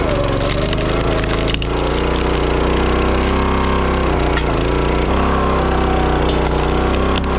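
Kohler 6.5 HP gas engine of a CountyLine 25-ton log splitter running steadily. Its pitch sags and recovers twice, about a second in and around four seconds in, as it takes load. A sharp crack comes about a second and a half in and another near the end.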